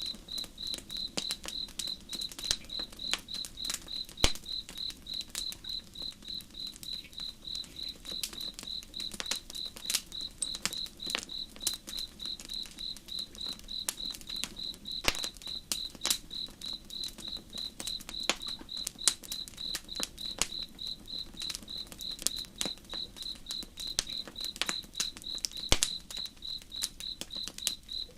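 A cricket chirps steadily at about three chirps a second over a campfire crackling with irregular sharp pops. A low, even murmur of slow river water lies underneath.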